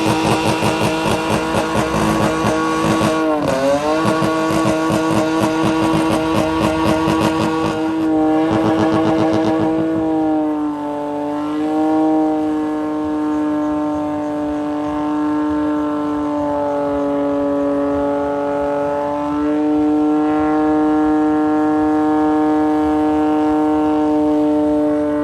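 Car engine held at high revs during a burnout, chattering rapidly against the rev limiter for the first eight seconds or so, then held steady near the top with a few brief dips.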